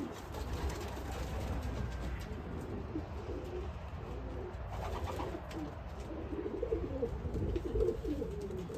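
Racing pigeons cooing in the loft: many low, warbling coos overlapping one another, more of them after the first couple of seconds.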